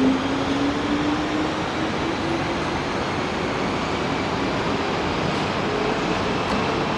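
Train running on the rails with a steady rushing rumble. A whine rises in pitch over the first two to three seconds as it picks up speed.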